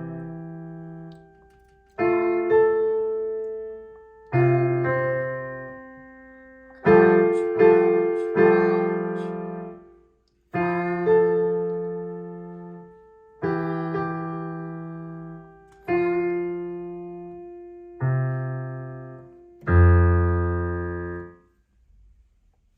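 Piano playing a simple beginner's piece with the left hand: slow chords, each struck and left to ring and fade before the next, about every two seconds. It ends on a louder, deeper chord about 20 seconds in.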